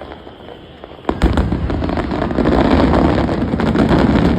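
Aerial fireworks: after a quieter first second, a sudden loud burst about a second in sets off a dense, rapid volley of shell bursts and crackling that runs on to the end.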